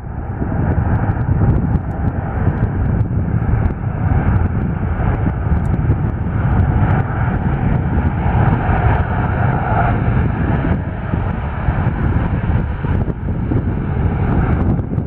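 Jet airliner engines running at takeoff thrust: a loud, steady rushing roar with a whine around the middle that swells a little partway through.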